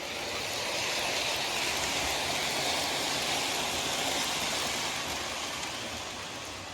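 Lionel O-gauge C&O 0-6-0T tank locomotive pulling rolling stock along the track: a steady rushing rumble of its motor and metal wheels on the rails. It grows louder over the first second, holds, then eases slightly near the end.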